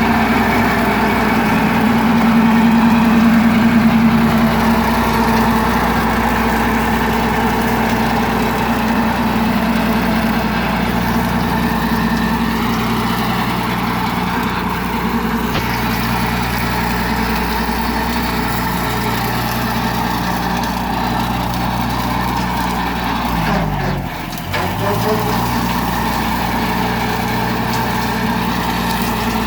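Tractor engine idling steadily. About three-quarters of the way through, the revs dip briefly and then pick back up.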